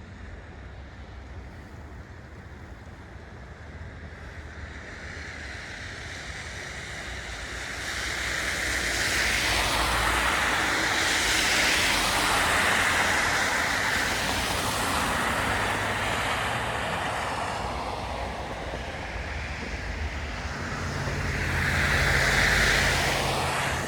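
Road vehicles passing by, their tyre hiss swelling and fading: one long pass through the middle, then a second near the end with a low engine hum.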